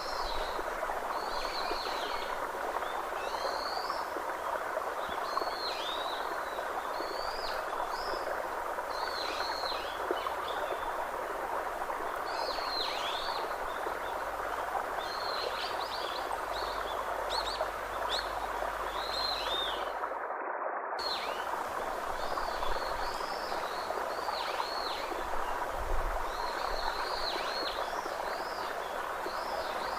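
A bird calling over and over in short down-curving chirps, about one a second, over a steady hiss of outdoor ambience. The chirps drop out for about a second, about two-thirds of the way through.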